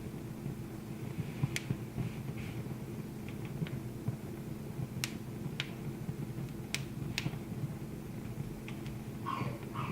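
Wood fire crackling in a fireplace: scattered sharp pops and snaps, the strongest about 1.5, 5, 7 and 7 seconds in, over a steady low rumble.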